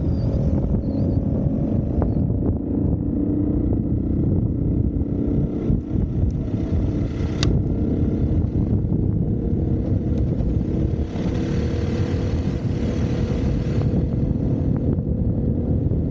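Single-cylinder four-stroke dirt bike engine running under way at a fairly steady speed, its note holding level.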